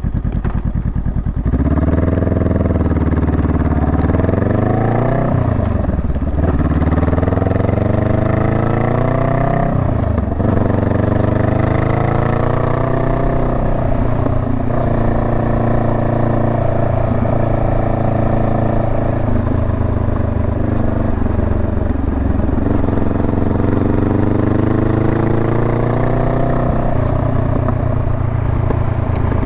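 Honda Rebel 500's parallel-twin engine pulling away and accelerating through the gears: the pitch climbs, drops back at each upshift, then climbs again. The revs then rise and fall as the bike rides on.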